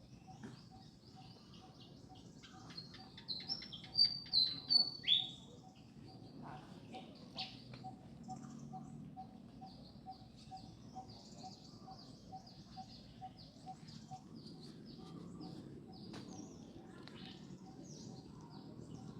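Birds chirping in short high calls, with a louder run of calls, some falling in pitch, about three to five seconds in. A faint, even ticking repeats about two or three times a second underneath.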